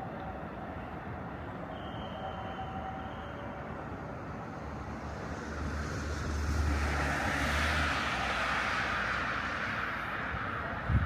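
Steady city street noise; a vehicle passes, its noise and low rumble swelling about five seconds in and fading away near the end.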